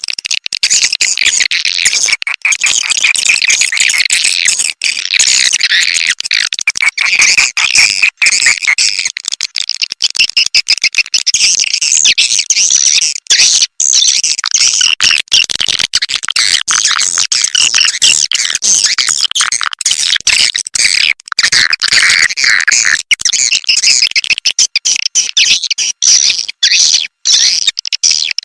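Swiftlet lure call: recorded swiftlet chirps and twitters played back to draw swiftlets in to roost and nest. It is a dense, continuous, high-pitched chattering, broken now and then by brief gaps.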